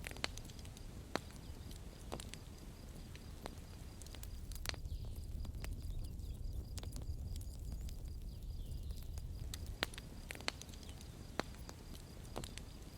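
Campfire crackling: irregular sharp pops and snaps of burning wood over a steady low rumble of the flames, which swells for a few seconds mid-way.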